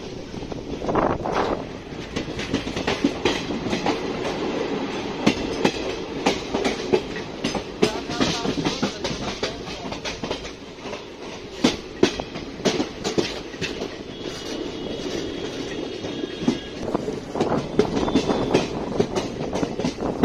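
Train running along electrified broad-gauge track, heard from aboard: a steady rumble with many irregular wheel clicks and clacks over the rail joints, and a faint high whine briefly about two-thirds of the way through.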